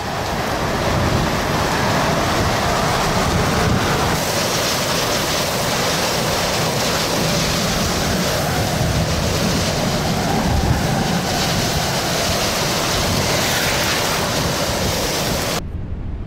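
Strong wind rushing over the microphone close to a tornado: a loud, steady rush of noise that cuts off suddenly near the end.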